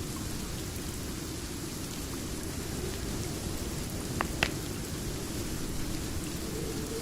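Steady rain ambience mixed with a crackling fireplace, the noise heavy in the low end, with two sharp pops from the fire a little past the middle.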